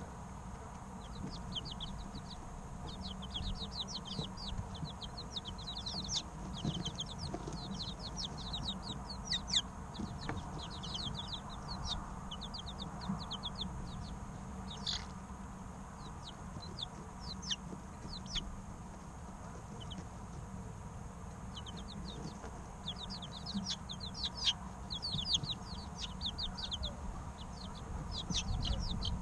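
Three-week-old chicken chicks peeping: rapid runs of short, high chirps from several birds, coming in clusters with a quieter lull about two-thirds of the way through.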